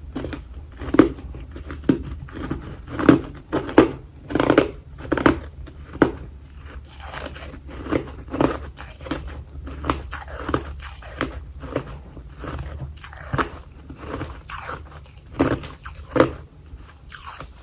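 A person biting and chewing chunks of carbonated humidifier freezer frost, with sharp crunches coming irregularly about once or twice a second.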